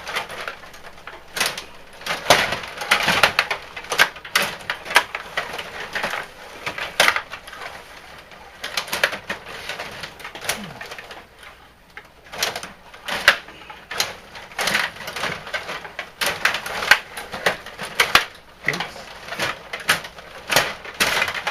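Ice hockey play in a rink: many sharp clacks of sticks and puck and scraping skates, irregular throughout, with faint voices in the arena.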